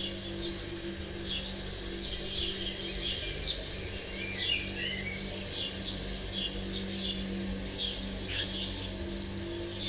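Birds chirping, a dense scatter of short calls and brief trills, over a low steady drone of two held tones.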